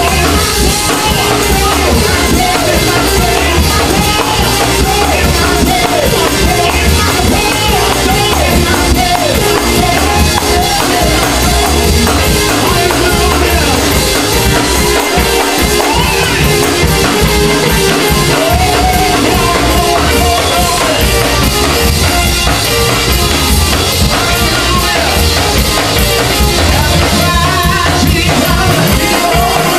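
Live Pentecostal praise-and-worship music: loud, steady singing over keyboard and drums.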